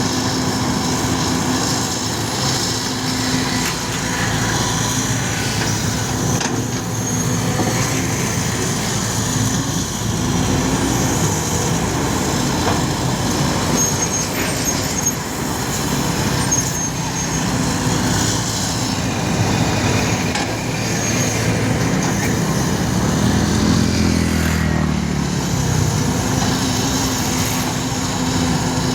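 Bulldozer's diesel engine running steadily at work, with scattered knocks; the engine note sags and recovers once, about three-quarters of the way through.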